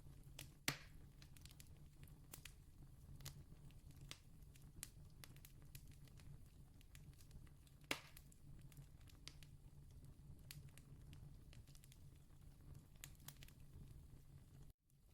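Campfire crackling faintly: many small scattered pops, with two louder snaps, one near the start and one about halfway, over a steady low rumble. The sound cuts out for a moment just before the end.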